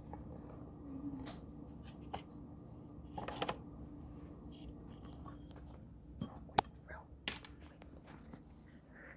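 Faint kitchen handling noises: scattered light clicks and taps, with a short rustle about three seconds in and a couple of sharper ticks later, over a low steady hum.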